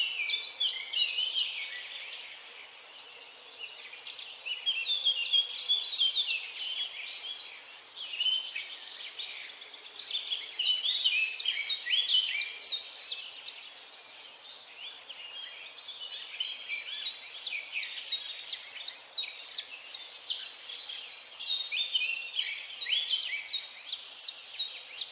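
Birds singing: about five bouts of quick, high, downward-sliding notes, roughly three a second, each bout lasting a few seconds, over a faint steady hiss.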